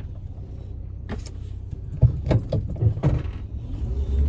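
1984 VW Westfalia camper van's engine running at low speed while maneuvering, with a few sharp clicks and knocks about two to three seconds in.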